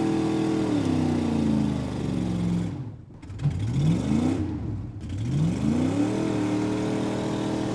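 Ford F-150 pickup's engine revving hard under load, straining to tow a second truck. The revs climb, hold and drop back, then climb again twice more, with brief breaks between.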